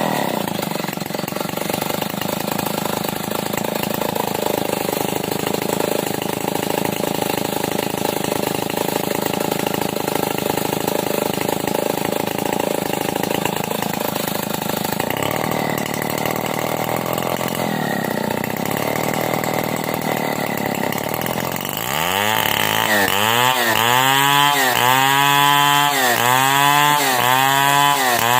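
Stihl 070 two-stroke chainsaw ripping lengthwise through a timber beam, running steadily under load. After about twenty seconds its engine speed starts rising and falling over and over, about once a second.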